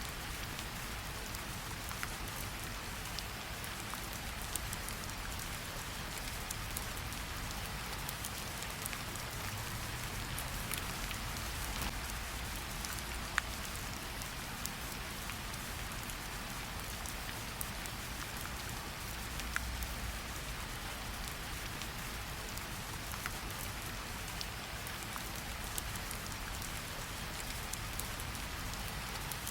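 Steady light rain falling on tree leaves, an even hiss scattered with many small drop ticks, a few of them louder, over a faint low rumble.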